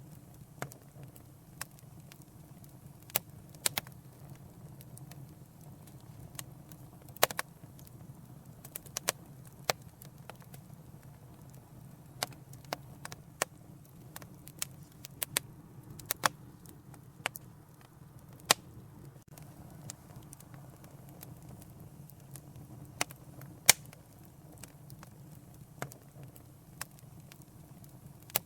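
A wood fire in a fireplace crackling, with sharp pops at irregular intervals, a few every couple of seconds, over a low steady rumble.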